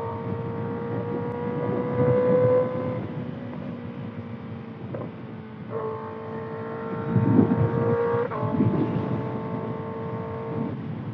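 Kawasaki ZX-6R's inline-four engine, breathing through a Voodoo slip-on exhaust, running at high revs while riding. The steady note rises slightly, fades for a few seconds, then comes back and holds before dropping away near the end. Wind buffets the microphone throughout.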